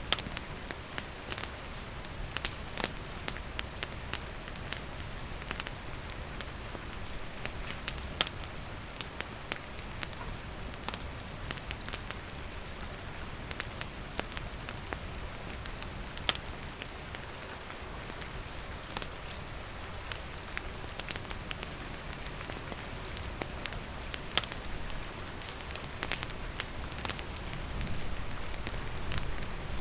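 Steady rain hissing and pattering, with a wood campfire crackling and popping in sharp, irregular snaps throughout.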